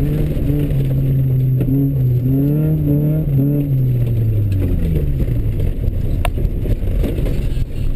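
Rally car engine heard from inside the stripped cabin, revving up and down through gear changes for the first few seconds, then falling in pitch as the car slows, over constant road and gravel noise. A sharp click comes about six seconds in.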